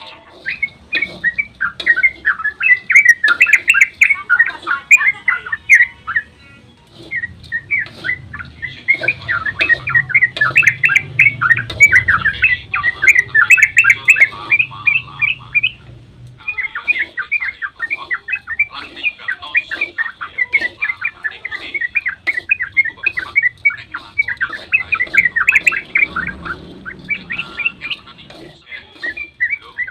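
Yellow-vented bulbul (trucukan) singing a long, fast chattering song of rapid bubbling notes, breaking off briefly about six and sixteen seconds in.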